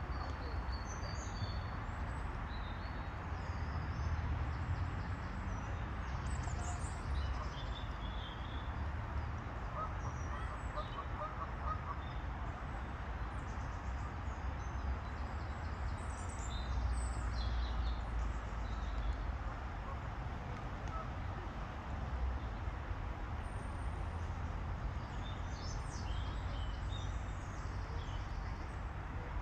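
Outdoor waterside ambience: a steady low rumble with small birds chirping high and on and off throughout, and a short run of quick repeated calls about ten seconds in, typical of a duck.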